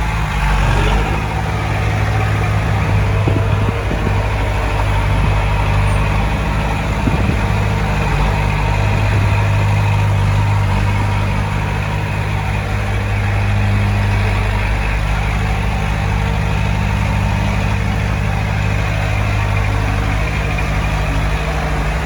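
Heavy earth-moving equipment's diesel engine running steadily, its low note shifting slightly now and then.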